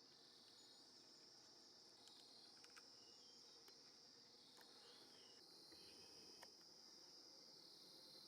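Faint, steady high-pitched insect chorus trilling without a break, with a few short faint bird chirps over it.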